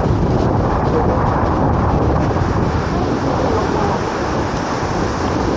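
Waves breaking on the beach, a steady wash of surf noise, with wind rumbling on the microphone.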